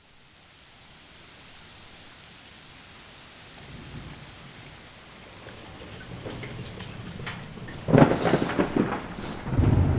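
Heavy rain fading in and building, with thunder rumbling from about halfway and a sudden, loud thunderclap near the end.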